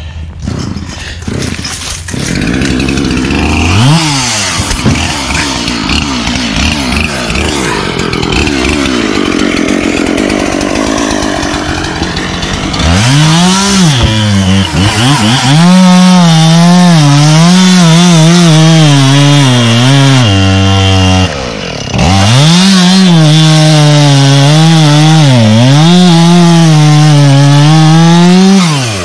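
Chainsaw engine revved briefly, then held at full throttle cutting wood, its pitch sagging and recovering as it bogs under load; the throttle is let off for a moment partway through, then the cut resumes before the saw drops back to idle near the end.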